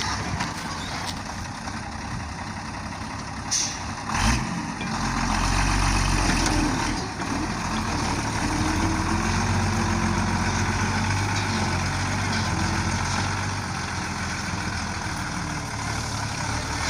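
Heavy truck engine running steadily, growing louder about four seconds in just after a sharp knock.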